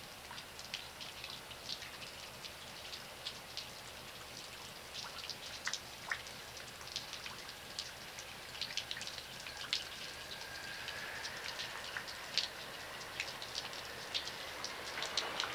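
Light rain pattering, with scattered individual drops dripping and splashing. A distant diesel freight train is faintly heard approaching, growing a little louder near the end.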